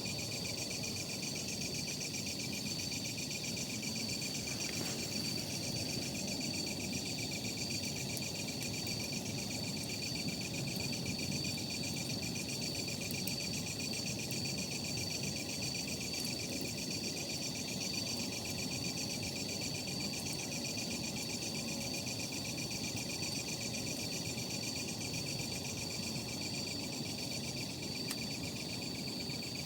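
Crickets trilling steadily, a fast-pulsing high chirr that never stops, over the low, soft noise of a campfire burning.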